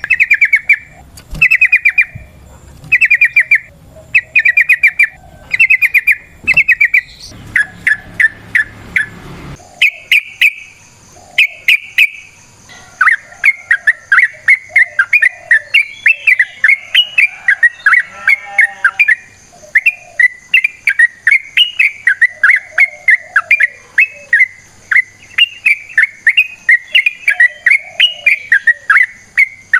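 Yellow-vented bulbul (trucukan) singing loudly. First come short bursts of quick chattering notes about once a second. A few seconds before the middle it breaks into a long, unbroken run of rapid notes, the long 'ropel' song.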